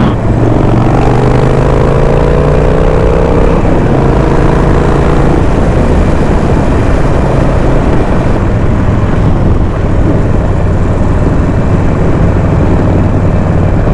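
Motorcycle engine running at road speed under heavy wind rush on the microphone, with a rising tone in the first few seconds.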